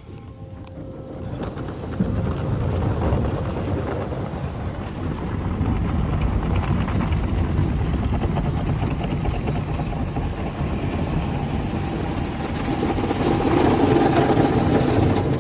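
Automatic car wash machinery running over a car: a loud, steady rumble that builds over the first two seconds and swells again near the end.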